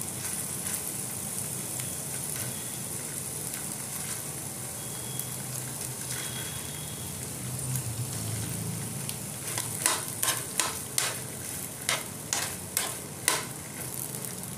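Chickpeas and boiled potato sizzling steadily in hot oil in a pan. About two-thirds of the way through, a spoon clacks against the pan about eight times in quick succession as the potato is mashed.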